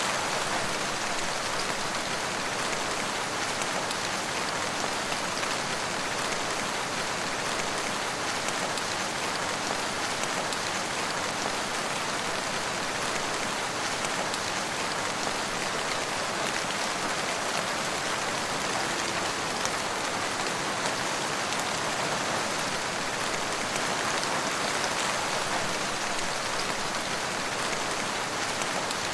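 Steady rainfall, a dense even hiss of drops pattering on a surface with fine scattered droplet ticks.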